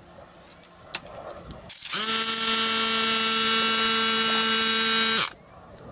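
Handheld electric wood router running at a steady high speed: a whine with a hiss starts about two seconds in, holds for about three seconds, then stops abruptly.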